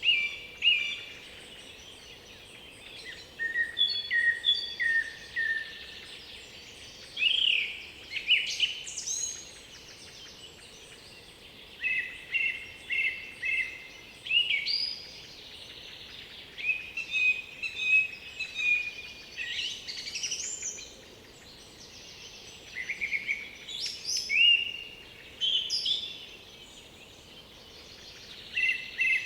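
Songbirds singing in woodland: short clear whistled and trilled phrases, often a note repeated two or three times, coming in bursts every few seconds with short pauses between, over a faint steady background hiss.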